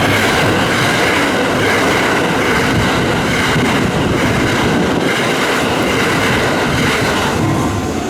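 Hanshin Railway electric train going through a level crossing: a loud, steady noise of wheels on rails that eases near the end.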